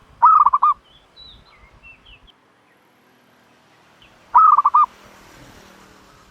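Turtle dove giving two short, loud calls about four seconds apart, each a quick run of four or five notes, with faint high chirps in between.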